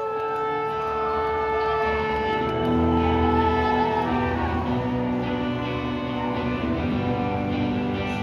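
Live rock band playing an instrumental passage between sung lines: a long held note over sustained chords, with the low end filling in more heavily about two and a half seconds in.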